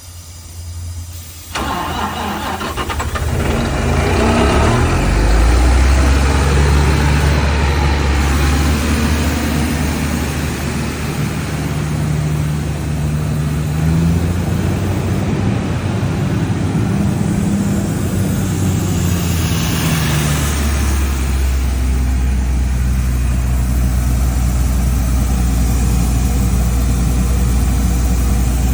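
The diesel engine of an Ingersoll Rand HP750 towable air compressor starting about a second and a half in, then running up and running steadily. Around twenty seconds in there is a brief rush of noise, and the engine settles into a steadier, lower note.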